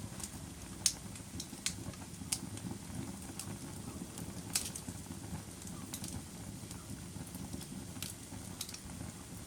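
Fire burning in a fireplace: about a dozen irregular sharp crackles and pops over a low steady rumble of the flames, the loudest pops about a second in and midway through.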